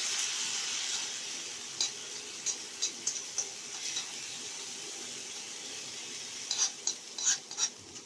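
Spice paste sizzling in hot oil in a wok, a steady hiss that is loudest at the start, with a spoon clinking against the pan a few times and stirring more busily near the end.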